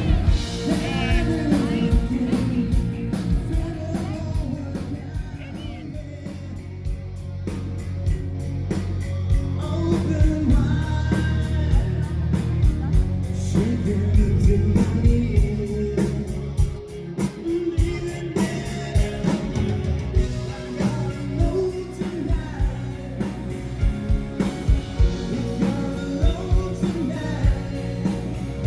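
Live rock band playing on stage, with a singer over guitar, bass and a steady drum beat.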